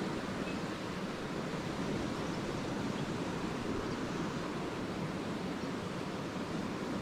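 Lake waves washing onto the shore, a steady, even rush of surf with no single wave standing out.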